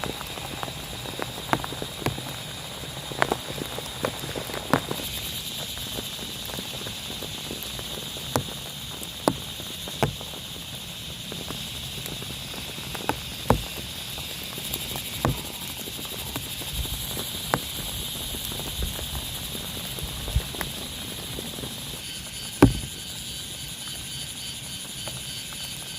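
Rain falling on a tent: a steady hiss with irregular sharp taps of heavier drops hitting the fabric, the loudest one near the end.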